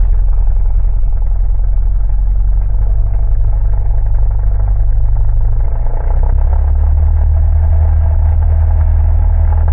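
Single-engine Cessna's piston engine running at takeoff power, a steady low drone heard inside the cockpit, with a shift in its low tone about six seconds in.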